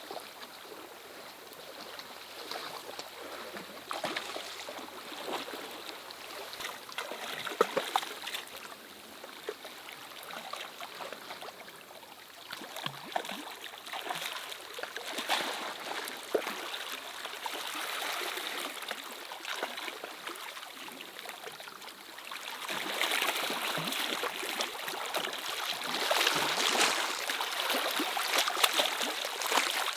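Water running and splashing, with irregular spatters and drips, growing louder over the last several seconds.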